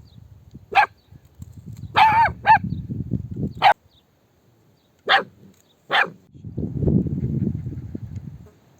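Dog barking, six short barks over about five seconds, the middle ones with a clear pitch. A low rustling rumble sounds between the barks and for a couple of seconds after the last one.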